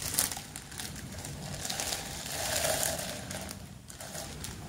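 Close rustling and crinkling of fabric being handled near the microphone, swelling about halfway through.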